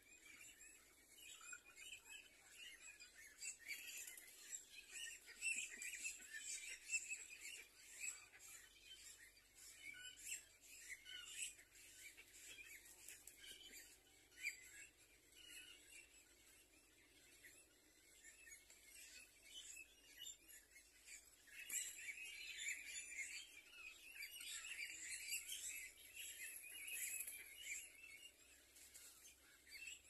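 Faint chirping and twittering of small birds, with many short calls scattered throughout and busier spells in the first half and again near the end.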